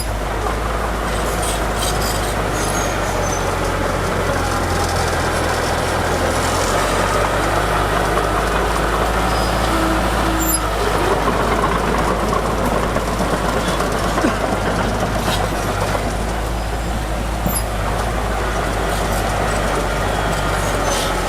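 Heavy diesel engine of earthmoving machinery running steadily under load, its low note shifting about six seconds in and again later.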